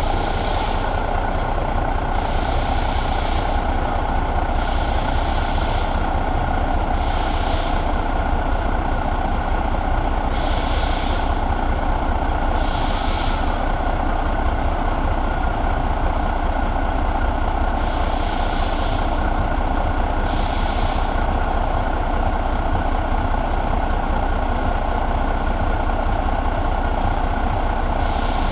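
1988 Renault truck diesel engine assembly running steadily at idle, with short hissing bursts recurring every couple of seconds.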